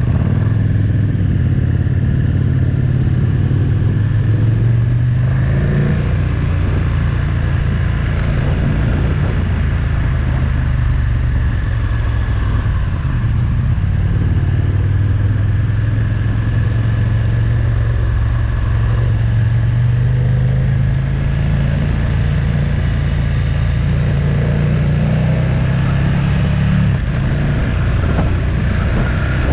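Motorcycle engine running while riding, over steady wind and road rush. The engine note climbs for a few seconds and drops about six seconds in, then climbs slowly again and drops near the end, as the revs rise and fall through gear changes.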